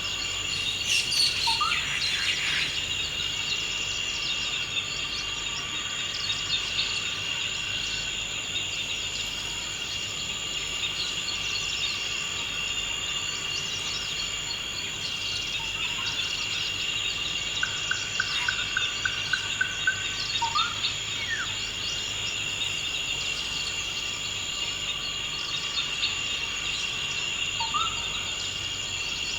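Forest ambience: a steady high-pitched insect drone, like crickets, with birds calling over it in several short sweeping notes and one rapid trill of about eight notes past the middle.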